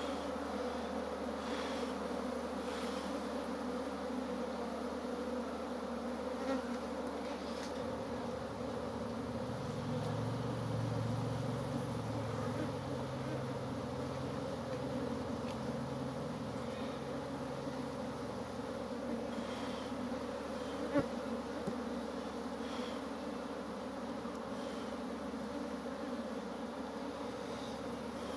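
Honeybees humming steadily in large numbers around an opened hive, the sound of a populous, strong colony. A low rumble swells for a few seconds near the middle.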